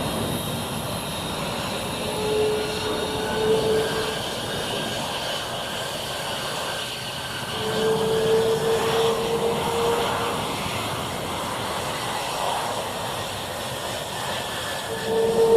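F-22 Raptor jet engines running: a steady rushing noise with faint high whines, and a mid-pitched hum that comes in and fades three times, for a second or more each time.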